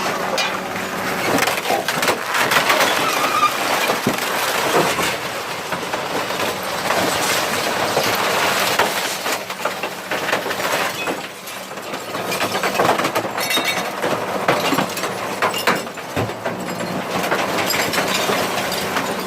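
Garbage truck's compactor crushing furniture and rubbish: repeated cracking and splintering over the steady hum of the truck's engine and hydraulics.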